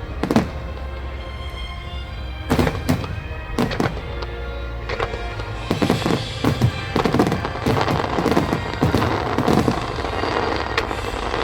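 Aerial fireworks shells bursting with sharp booms, a few seconds apart at first. From about six seconds in they give way to a dense run of rapid crackling bursts. Music plays under the fireworks.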